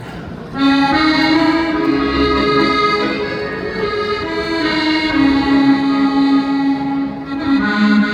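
A trot medley's backing track starts suddenly about half a second in, led by an accordion melody of long held notes.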